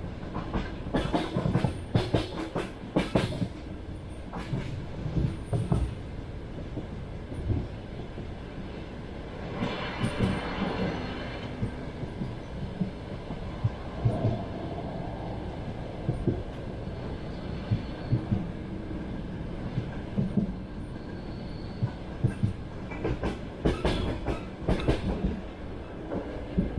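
Passenger train wheels rumbling along the track, with quick bursts of clickety-clack as the wheel sets cross rail joints near the start and again near the end. About ten seconds in, a brief higher-pitched squeal of wheels on rail rises over the rumble.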